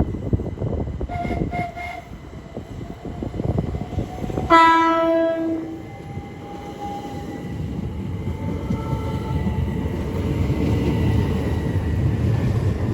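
Southeastern Class 375 Electrostar electric multiple unit sounding its horn once, a note lasting a bit over a second, about halfway through. It then pulls away, with a faint rising whine over a building rumble of wheels on track.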